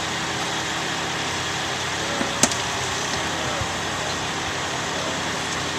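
Steady outdoor din of an engine idling at low level with faint, distant voices, broken by one sharp click about two and a half seconds in.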